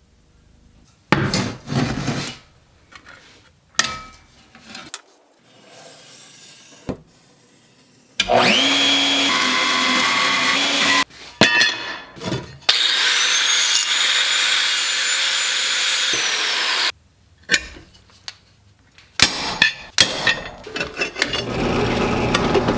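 Small electric power tool spinning up and cutting metal in two runs of about three and four seconds, trimming the ends off overlong screws. Clatter of parts and the tool being handled comes before, between and after the runs.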